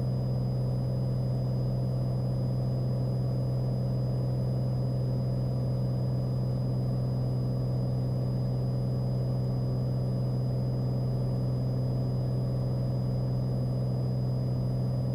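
Cessna 182 Skylane's piston engine and propeller droning steadily in the cockpit in flight, a constant low hum with no change in pitch.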